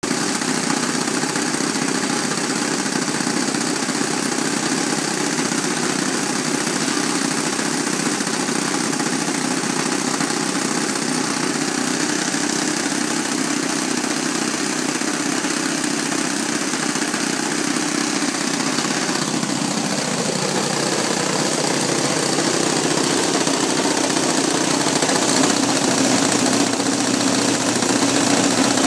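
Saito 72 four-stroke glow engines of an RC model B-25 running steadily during break-in. About two-thirds of the way through, the engine note drops in pitch and then holds at the lower note.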